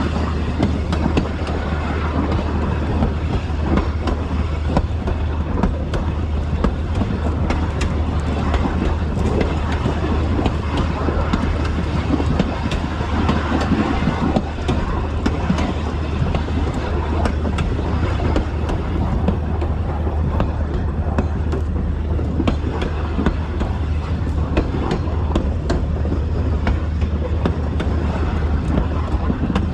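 A 2000 class diesel railmotor running along the line: a steady low engine drone under a continuous rattle and clatter of wheels on rail, with many small clicks and knocks.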